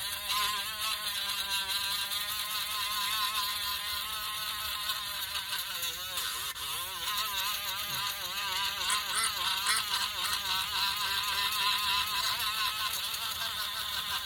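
Electric sander running against basswood, its motor pitch wavering up and down as the pressure on the work changes.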